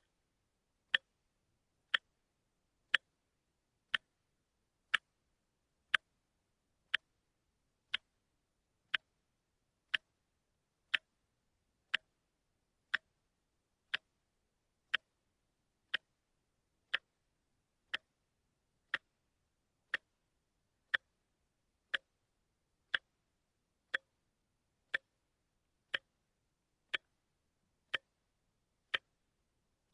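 Quartz watch ticking in a steady rhythm, one short sharp tick each second.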